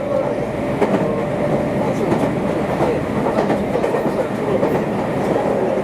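Meitetsu limited express train running along the Nagoya Main Line, heard from on board: a steady rumble of wheels on rails with a steady hum and light clickety-clack.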